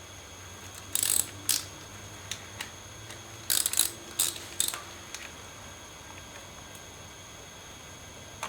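A hand ratchet wrench clicking in short runs, two about a second in and three more around the middle, as the bolts of the Suzuki DR650's oil filter cover are loosened for a filter change.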